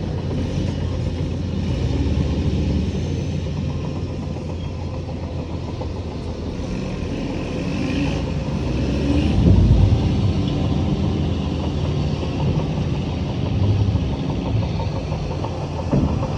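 Heavy diesel engine of earthmoving machinery running with a low, steady rumble, swelling louder about nine and a half seconds in.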